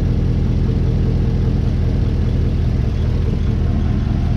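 Cammed truck engine idling steadily, with an even low pulse.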